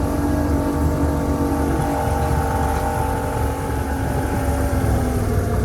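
Freshly rebuilt two-stroke boat engine running steadily during its break-in, its pitch easing down slightly near the end.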